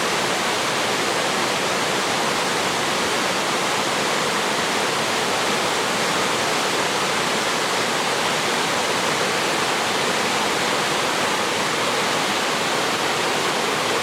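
Waterfall: water pouring down steadily in a loud, even rush.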